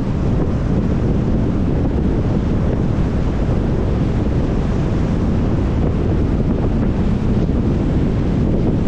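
Steady rumble of a vehicle driving, tyre and wind noise with most of the sound low and dull, picked up by a dash cam.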